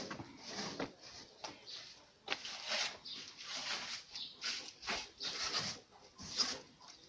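Broom sweeping a floor: a series of short, irregular swishing strokes with a few light knocks.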